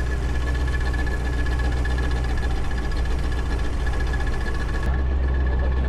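An engine running steadily: a constant low hum with a thin steady whine above it.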